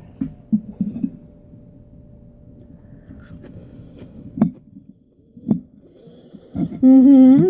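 Close-up eating sounds: soft chewing with a few small mouth noises, two sharp clicks around the middle, then a voice humming near the end.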